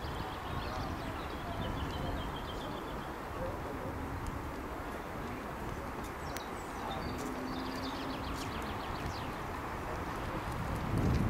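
Birds singing in short repeated trills, twice, over a low steady rumble of outdoor background noise.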